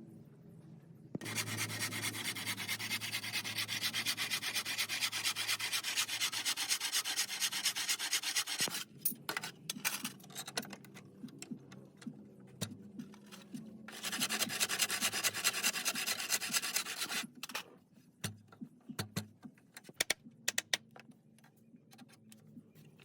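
Wood being sanded in two long, steady passes: one starting about a second in and stopping abruptly near the middle, a shorter one later. Scattered light knocks and scrapes fill the gaps.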